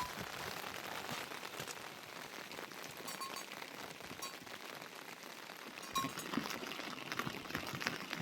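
Rain falling steadily, a hiss of drops pattering on surfaces, with scattered louder drips from about six seconds in.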